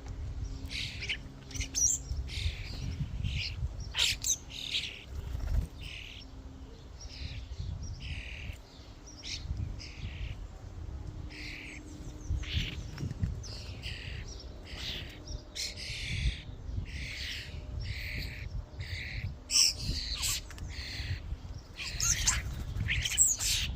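A flock of common starlings calling at a feeder: a dense, continuous run of short, overlapping calls, with a low rumble underneath.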